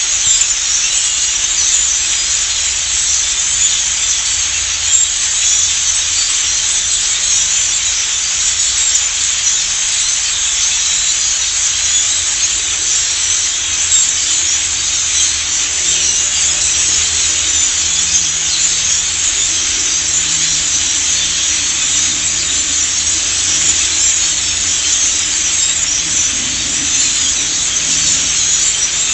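A large flock of birds making a dense, continuous high chatter that blends into a steady hiss, with a faint low hum underneath.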